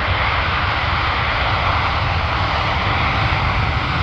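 Jet engine noise from a Boeing 787-9 Dreamliner's Rolls-Royce Trent 1000 turbofans as the airliner flies its display: a steady, even rush over a low rumble.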